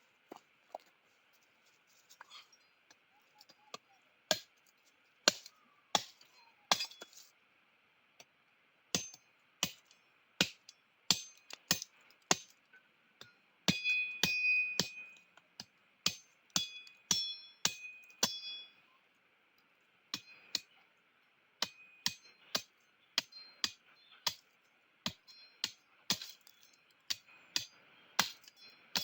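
Repeated sharp strikes of a metal tool, each followed by a short metallic ring. They come irregularly, about one or two a second, with a cluster of louder, longer-ringing blows a little under halfway through.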